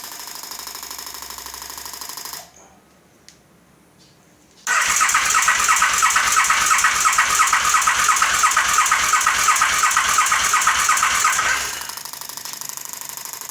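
2008 KTM 950 SM's V-twin turning over on its electric starter for about seven seconds, a fast, even cranking that never fires or catches: the engine won't start, with only the rear carburettor spraying fuel. A quieter steady hum comes before the cranking and again after it stops.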